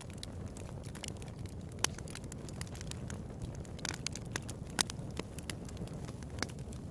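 Wood fire in a fireplace crackling: a steady low hiss of burning with irregular sharp pops, the loudest about two and five seconds in.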